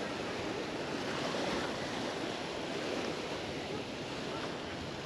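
Mediterranean surf washing onto the beach: a steady rush of waves.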